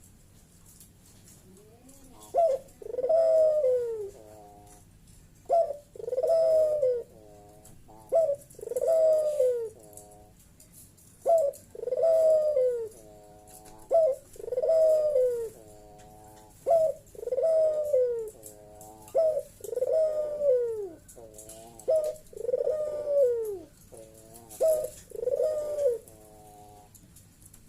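Puter (Barbary dove) cooing loudly and repeatedly in its 'bekur' call. Each call is a short note followed by a longer falling coo, coming every two to three seconds.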